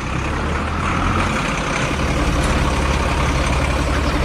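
Heavy truck engine running with a steady low rumble and a hiss, growing a little stronger about two seconds in.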